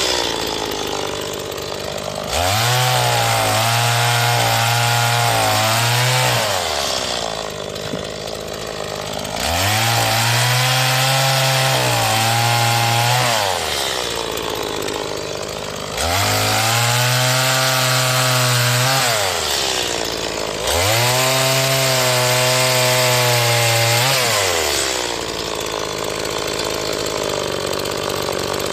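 New STIHL MS 180 two-stroke chainsaw being run in, revved up four times and held at high revs for about four seconds each, dropping back to idle between. This is most likely cutting firewood. It idles near the end.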